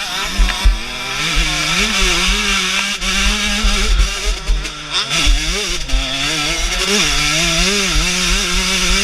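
Husqvarna TC 125 two-stroke single-cylinder motocross engine under hard riding, its pitch climbing and dropping again and again as the throttle is opened and shut, with uneven low rumble and thumps beneath.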